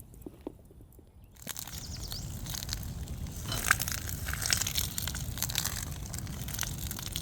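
Footsteps crunching and crackling through dry forest litter and twigs. A few light steps come first, then from about a second and a half in a dense run of crunching and snapping.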